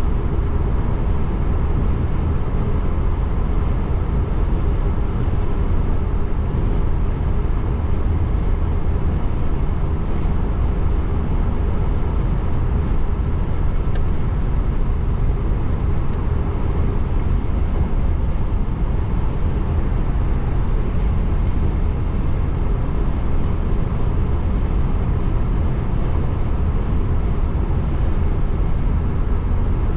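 Steady road and tyre noise of a car driving on a rain-wet road, heard from inside the car, with a deep rumble underneath. There are two faint ticks near the middle.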